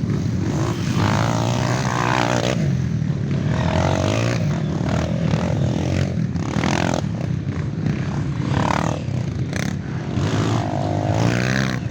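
Off-road trail motorcycle engines running and revving, their pitch repeatedly rising and falling as the bikes accelerate and ease off.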